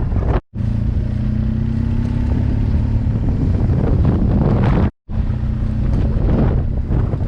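BMW R 1200 GS flat-twin engine with an SC Project exhaust running at a steady speed while riding, with wind rushing over the microphone. The sound drops out completely twice, briefly, about half a second in and about five seconds in.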